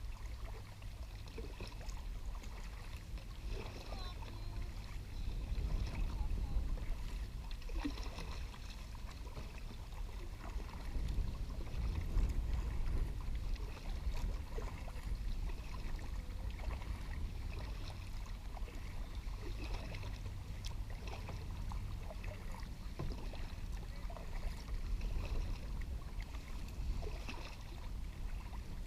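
Wind buffeting the microphone as a steady low rumble, with faint water sounds from kayak paddling on a lake.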